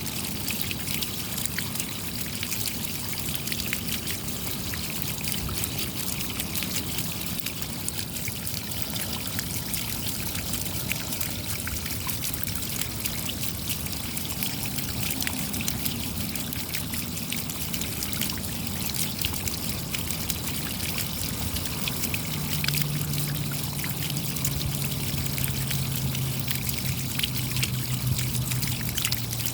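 Steady rain: a dense patter of small raindrops with water trickling and running. In the last quarter a low steady hum joins in under the rain.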